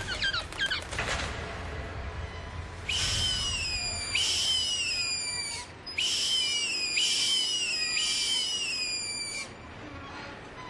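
Bird calling: a few quick chirps at the start, then five falling, whistled calls in quick succession, each just under a second long, that stop about a second before the end.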